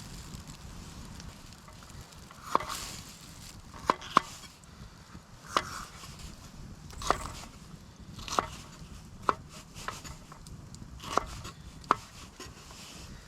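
Knife chopping food on a cutting board: about ten separate sharp knocks at an uneven, unhurried pace, roughly one every second or so.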